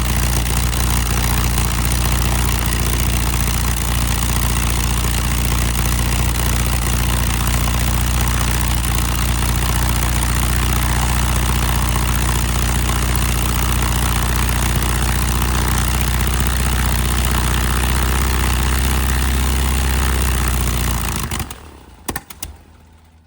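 Rebuilt Lycoming O-290 four-cylinder aircraft engine running steadily with its propeller. About 21 seconds in it cuts out suddenly and spins down, with a few light clicks as it stops: the engine has run out of fuel.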